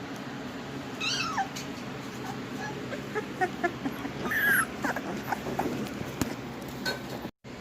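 Three-week-old pit bull puppies whimpering and squeaking: a high falling cry about a second in, then a run of short squeaks with a louder cry around the middle.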